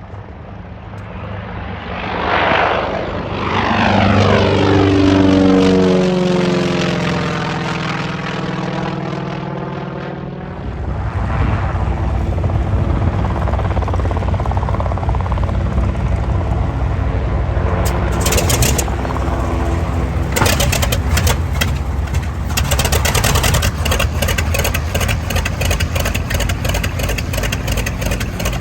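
A propeller airplane flies past close by, its engine and propeller note falling in pitch as it goes, loudest about five seconds in. From about ten seconds in, a propeller aircraft engine runs steadily nearby, with repeated short bursts of noise over it in the second half.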